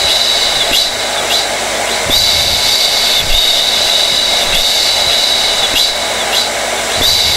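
Hair dryer running continuously: a steady rush of blown air under a high motor whine that dips briefly every second or so.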